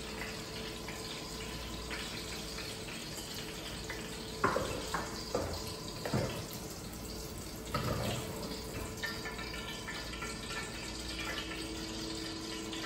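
Zucchini strips deep-frying in a pot of hot oil, a steady sizzle. A few metal clinks in the middle come from a slotted spoon knocking against the pot and strainer as the done pieces are lifted out.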